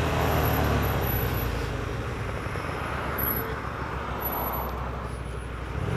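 Hyosung 125cc motorcycle engine running, heard with wind noise on a helmet-mounted camera. The engine note fades from about two seconds in as the bike eases off and slows in traffic, then comes back strongly near the end.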